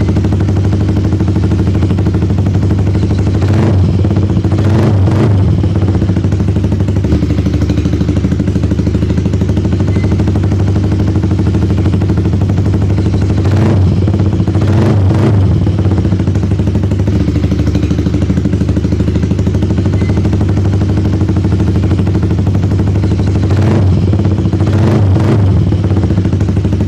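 Yamaha R15's single-cylinder engine idling steadily through an M4 full-system aftermarket exhaust. It is blipped twice in quick succession three times, about ten seconds apart.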